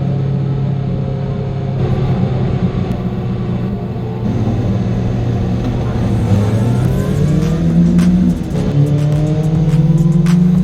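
2000 Suzuki GSX-R750's inline-four through an Akrapovic exhaust, running steadily at first. About six seconds in it climbs in pitch as the bike accelerates, dips briefly at a gear change, then climbs again.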